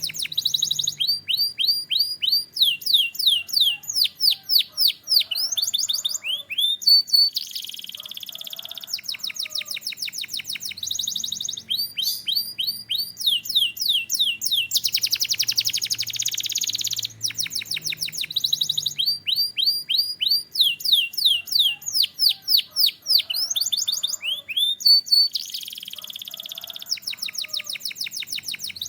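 Canary singing a long, continuous song: fast trills of repeated falling notes, broken every few seconds by dense buzzy rolls.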